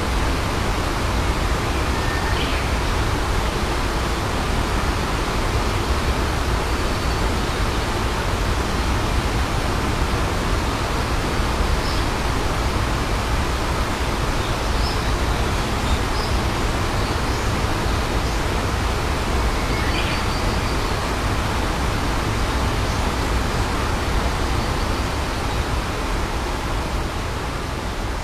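Waterfall rushing steadily in a dense, even hiss, with a few faint short high chirps over it; it fades slightly near the end.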